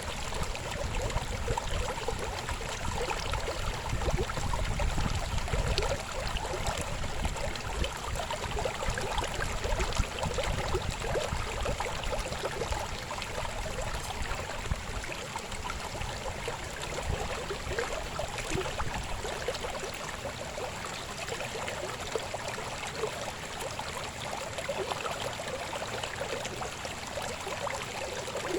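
River babbling steadily, a dense gurgling rush of water, with a deeper rumble in the first half that eases off later on.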